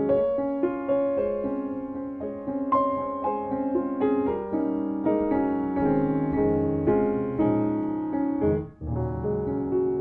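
Solo piano background music: gentle notes struck about twice a second, with a brief break in the sound near the end.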